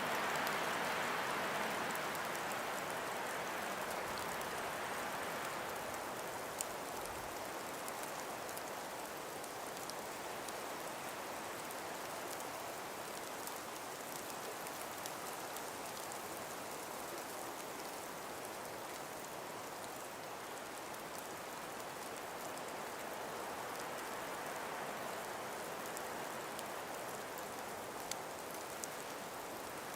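Steady wind blowing through a frost- and ice-covered forest, a hissing rush with a stronger gust in the first couple of seconds that eases off. Faint scattered ticks sound through it.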